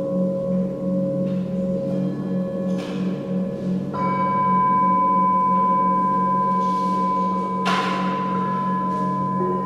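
Singing bowls ringing in long sustained tones over a low, pulsing drone; a new bowl tone is struck about four seconds in, and a brief rushing swish sounds near eight seconds.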